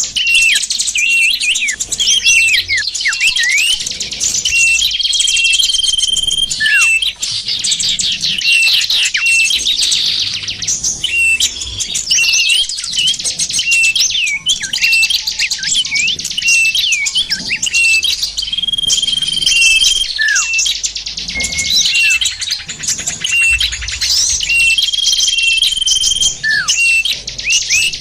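Dense chorus of many small songbirds chirping and twittering, with quick falling whistles and short held notes recurring every several seconds: a looped bird-lure (pikat) recording for attracting small birds.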